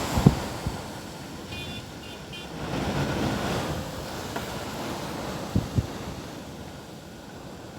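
Strong gusting wind rushing and buffeting the microphone, with a few low thumps. A gust swells about three seconds in, then the wind eases off.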